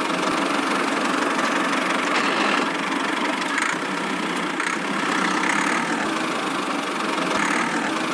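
An engine running steadily at idle, with a rough, even sound.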